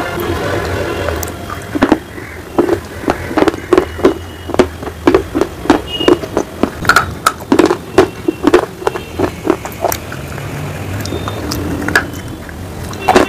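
Close-miked crunching of a hard baked-clay piece being chewed, with sharp crunches about two to three a second. A fresh bite comes near the end.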